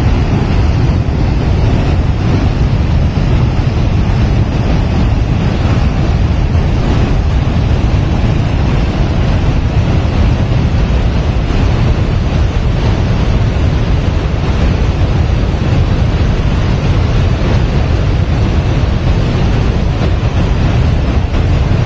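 A river in flood rushing past, a loud, steady, deep noise of churning water that does not let up.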